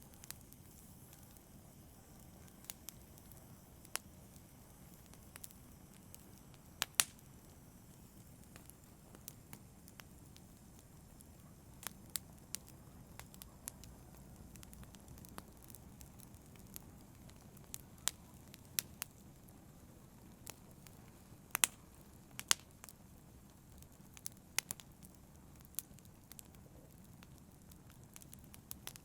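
Wood fire burning with a low steady hiss and irregular sharp crackles and pops, some in quick clusters.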